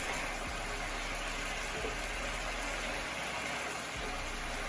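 Chicken pieces sizzling in a hot pan with a steady hiss, the chicken partly cooked through.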